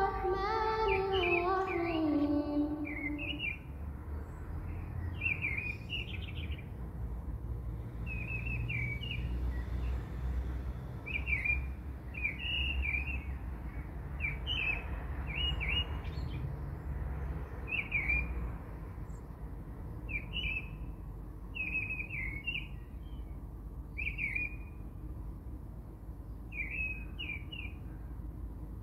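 A small songbird chirping in short, quick phrases, repeated every second or two, over a low steady rumble.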